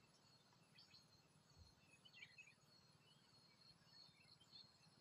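Near silence: faint open-air ambience with a few faint, short, high bird chirps, about one, two and four and a half seconds in.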